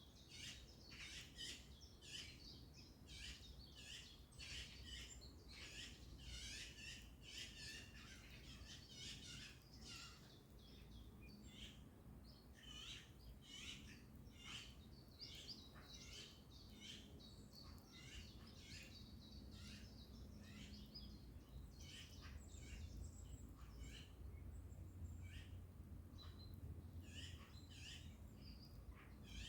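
Faint birdsong: many birds chirping and calling in short high notes, busy in the first half and thinning out later, over a steady low background rumble.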